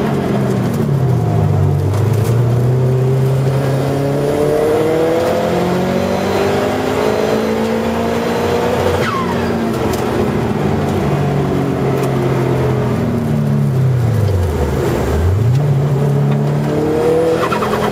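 Subaru Legacy's boxer engine heard from inside the cabin on track, pulling under load with its pitch climbing. Revs fall away steeply about three-quarters of the way through, then rise again as it accelerates. A brief falling squeal about nine seconds in.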